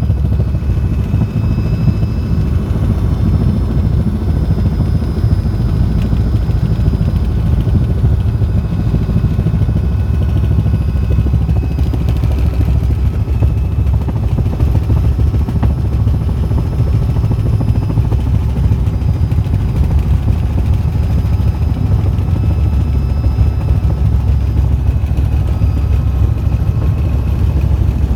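Helicopter in flight: steady, loud engine and rotor noise, heavy in the low end with a fast even flutter and no change in pace.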